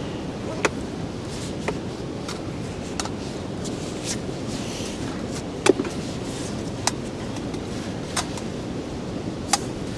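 Steady blizzard wind noise, broken by about eight sharp clicks and knocks of camp gear being handled; the loudest comes a little before six seconds in.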